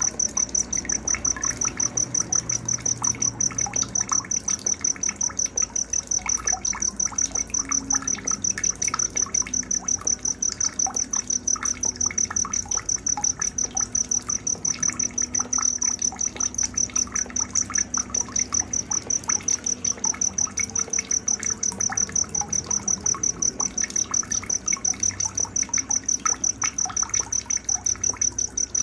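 Crickets chirping in a steady, high-pitched pulsing trill that repeats evenly several times a second, over faint scattered chirps lower in pitch.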